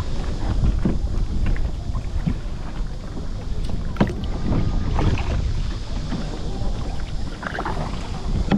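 Kayak paddle strokes splashing in the water, with wind buffeting the microphone and a sharp knock about four seconds in.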